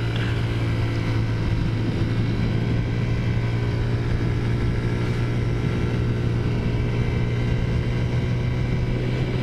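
Taotao Zummer moped's modified 50cc four-stroke scooter engine running at a steady cruising speed, a constant drone that holds one pitch.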